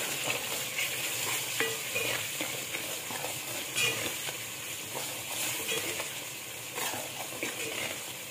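Onions, tomatoes and spices sizzling steadily in hot ghee while a metal ladle stirs and scrapes them around a metal pot, with scattered light scrapes and knocks.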